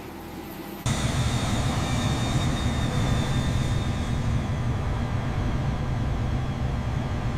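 Jet aircraft engines running at high power, cutting in abruptly about a second in as a loud, steady rumble, with a faint high whine that fades after a few seconds.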